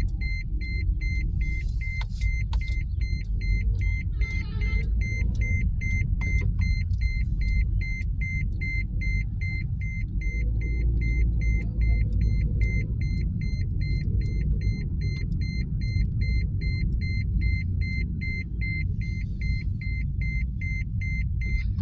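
A car's dashboard warning chime beeping rapidly and evenly without letting up, over the low rumble of the car driving, heard from inside the cabin.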